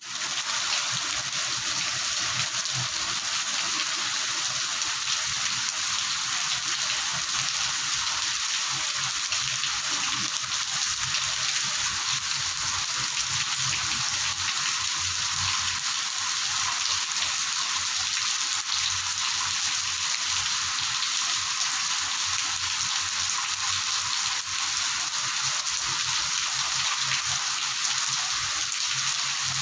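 Torrential monsoon rain pouring steadily onto flooded ground and brick paving, a dense, even hiss with no let-up.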